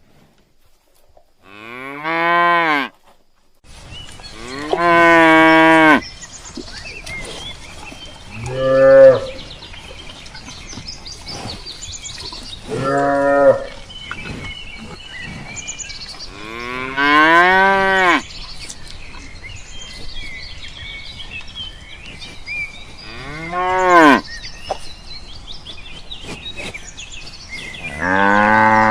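An animal calling repeatedly: about seven drawn-out calls a few seconds apart, each rising and then falling in pitch.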